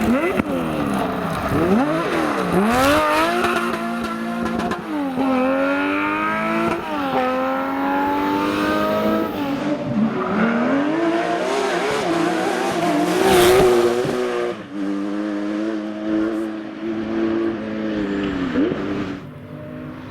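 Porsche rally car's flat-six engine at full throttle, revs climbing and dropping back with each upshift through the gears, then held high before falling away as the driver lifts off near the end.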